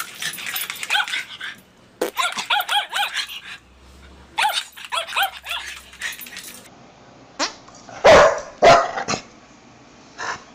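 A dog yapping in three quick runs of short, high barks with brief pauses between them. After a cut, a few separate, louder short sounds follow, the loudest about eight seconds in.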